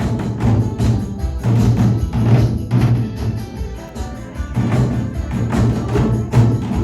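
Nanta drumming: rapid, even drumstick strokes on Korean drums, with sharp stick clicks, played over a loud backing music track with a steady bass line.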